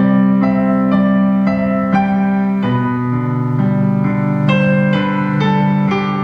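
Piano playing a slow passage of sustained chords. New notes are struck about every half second, and the harmony changes a few times.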